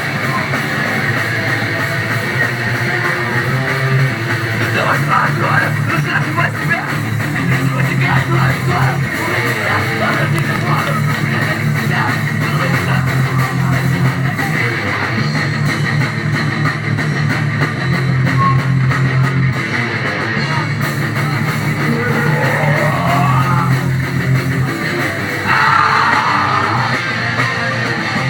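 A live rock band playing loud, heavy guitar music, with electric guitar over a bass line that moves from note to note.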